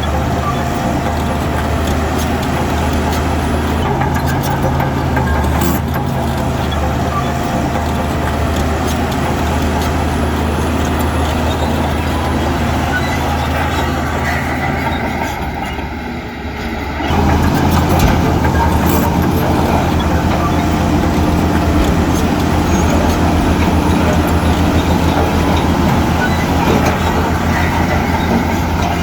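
Heavy diesel earthmoving machinery engine running steadily under work. About halfway through the sound briefly dips, then picks up again slightly louder with a denser, pulsing engine note.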